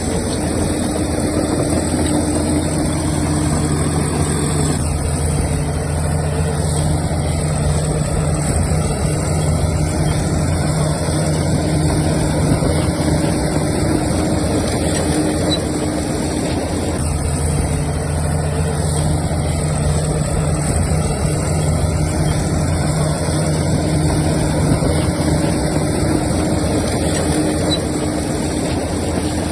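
Diesel engine of heavy earthmoving machinery running steadily. Its low hum fades from about five seconds in and comes back strongly around seventeen seconds.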